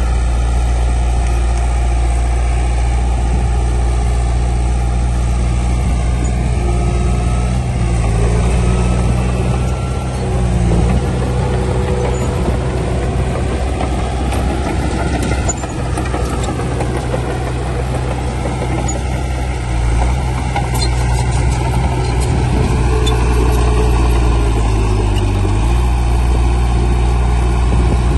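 Heavy diesel earthmoving machinery running steadily, with the engine pitch stepping a few times.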